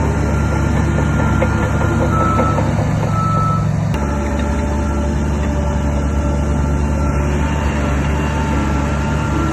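Heavy diesel earthmoving machinery running steadily under load, with short high-pitched tones now and then over the engine noise. The sound changes abruptly about four seconds in.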